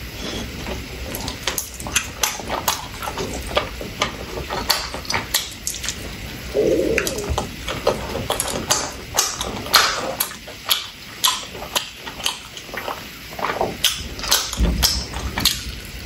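Close-up eating sounds from chewing skewered meatballs: many quick wet smacks and clicks of the mouth, with a brief low hum about seven seconds in.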